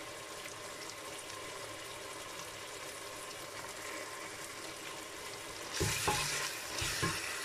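Onion-tomato masala with fresh ginger-garlic paste frying in a stainless steel pressure cooker pot, a steady sizzle. About six seconds in, a spatula starts stirring it, scraping and knocking against the pot.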